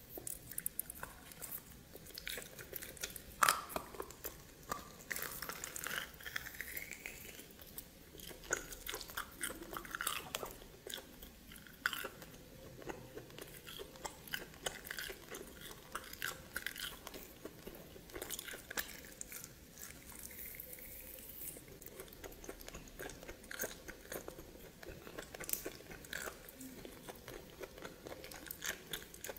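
A person chewing and biting steamed snake close to the microphone, with irregular crunches and wet clicks.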